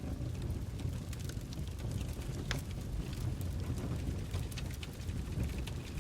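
Wood fire burning in a fireplace: a steady low rumble of the flames with scattered crackles and pops from the burning logs, one sharper snap about halfway through.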